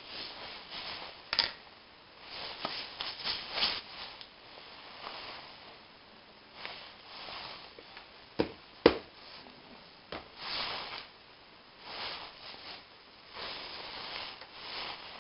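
Hand lapping of a petrol engine's valve against its seat: the valve being worked back and forth on grinding paste gives irregular bursts of gritty scraping, with a few sharp knocks, the loudest about nine seconds in.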